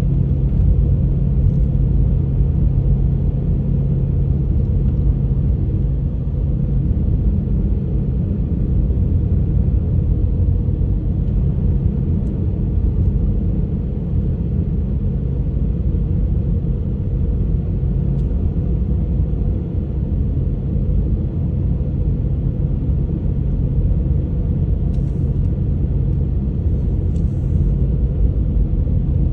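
Honda HR-V driving on a snowy road: a steady low rumble of road and engine noise. A low hum runs through the first quarter, drops out, then comes back past the middle.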